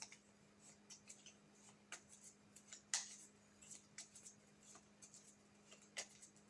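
Faint handling of tarot cards: scattered crisp clicks and rustles, with a sharper snap about 3 s in and again about 6 s in, over a steady low electrical hum.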